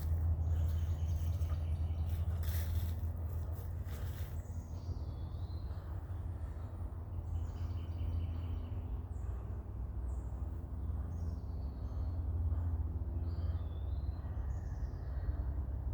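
Songbirds chirping with short, quick calls, more of them from about five seconds in, over a steady low rumble. A few rustles in the first few seconds.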